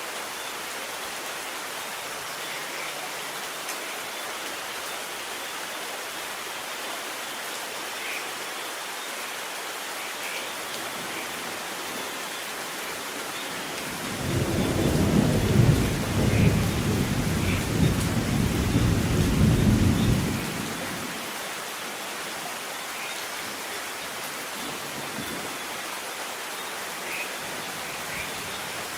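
Steady rain falling, with one long rumble of thunder rolling in a little before halfway and fading out several seconds later.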